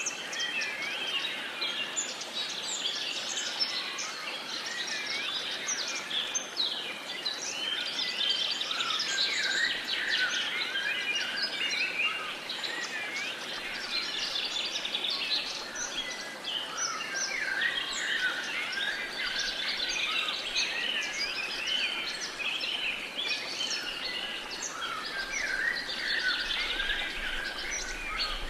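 A dense chorus of many birds chirping and singing at once over a steady background hiss.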